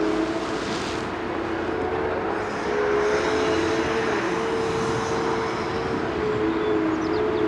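Liebherr 946 hydraulic excavator working: a steady diesel engine and hydraulic drone whose hum shifts up and down in pitch with the load.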